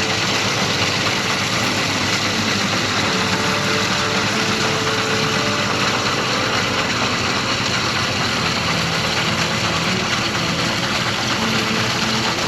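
An engine running steadily, with a constant noisy hiss over it.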